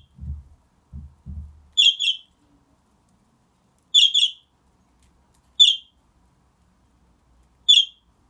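A pet bird giving short, sharp, high chirping calls about every two seconds, some of them in quick pairs. A few low thuds sound in the first second and a half.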